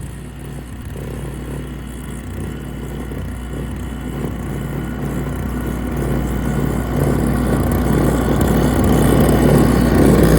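Car driving on a wet, slushy road: steady engine hum and tyre noise, growing louder as the car picks up speed.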